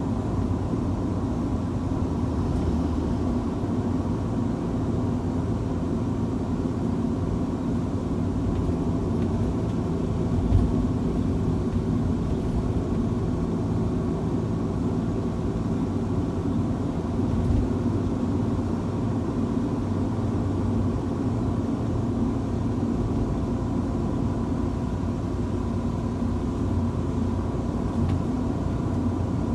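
Car travelling on a highway in heavy rain and strong wind: a steady low rumble of road and engine noise with a faint steady whine, and two brief low thumps, about ten and about seventeen seconds in.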